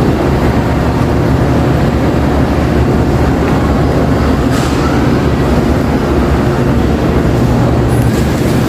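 Supermarket cold-cuts and butcher section ambience: a steady low hum and rumble with an even wash of background noise, and no clear single event.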